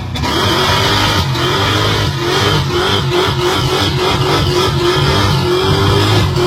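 A car engine running and revving, its pitch rising and falling in repeated swells.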